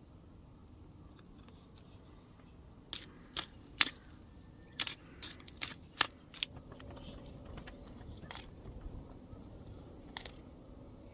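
Sharp cutting clicks from food preparation: a quick run of about eight snips or taps a few seconds in, then two more spaced out, over a low steady outdoor background.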